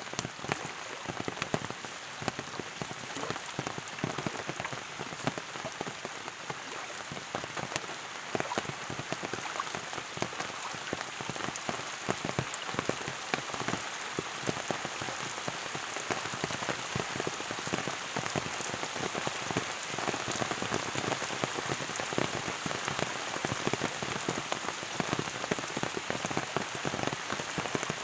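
Steady rain falling, with many individual drops pattering and ticking on surfaces.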